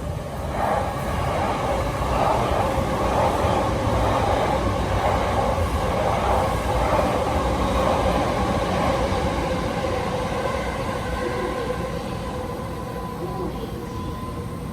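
Electric train passing at speed, its wheel-on-rail rolling noise building about half a second in and holding steady, easing slightly near the end.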